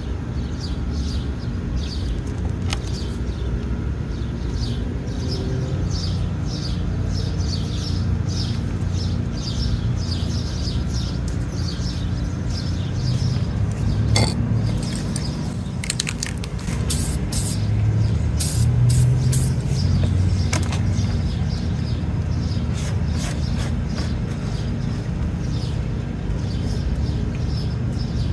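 Aerosol spray paint can rattling as it is shaken, about three rattles a second, then sprayed in several short hissing bursts about halfway through. A steady low hum runs underneath.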